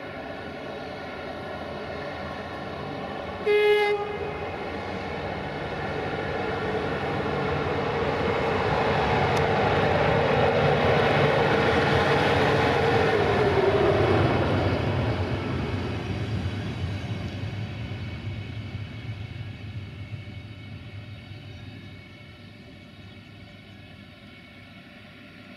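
Train horn gives one short blast, then a train passes close by: its running noise builds, peaks and fades away, with a steady tone that drops in pitch as it goes past.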